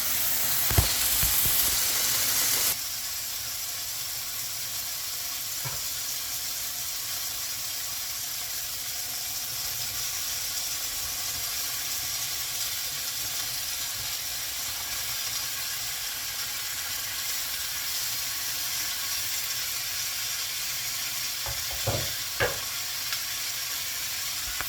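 Chicken and vegetables sizzling in a hot pan: a steady frying hiss that drops in level about three seconds in, with a few light knocks near the end.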